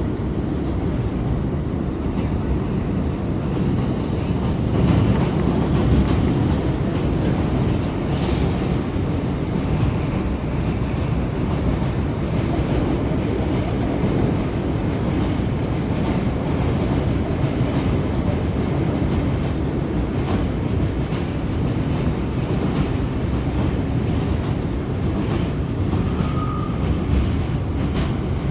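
R179 subway car heard from inside while running at speed: a steady low rumble of wheels on rail with scattered faint clicks, and a short high squeal near the end.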